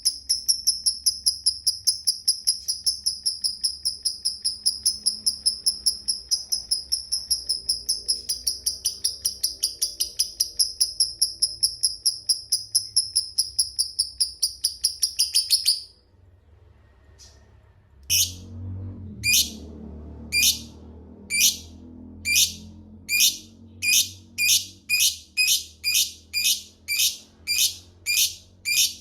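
Lovebird calling. First comes the long 'ngekek' chatter, a fast, even run of shrill high notes held for about sixteen seconds that breaks off abruptly. After a short pause it starts 'ngetik': separate sharp ticks that come faster and faster.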